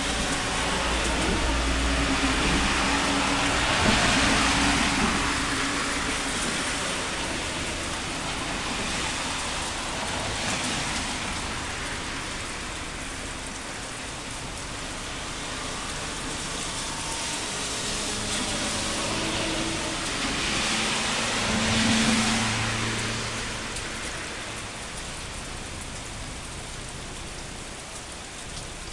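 Steady summer rain falling, with vehicles hissing past on a wet road twice: once a few seconds in and again about two-thirds of the way through.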